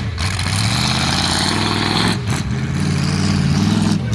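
Truck engine running, its pitch rising and falling as it revs, with a brief break about two seconds in.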